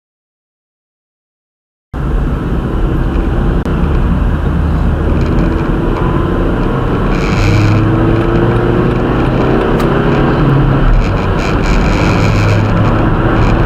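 After about two seconds of silence, a vehicle is heard driving: loud engine and road noise, with the engine's pitch rising several times as it accelerates.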